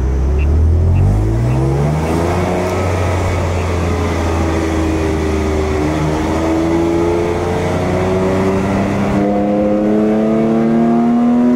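BMW M4 GTS's twin-turbo 3.0-litre inline-six heard from inside the cabin while driving. Revs rise sharply over the first two seconds, then climb slowly and steadily as the car accelerates.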